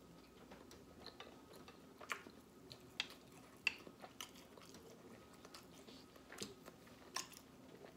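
Close-up chewing of goat roti eaten by hand, soft and wet, with scattered short mouth clicks, the sharpest about three seconds in and just after.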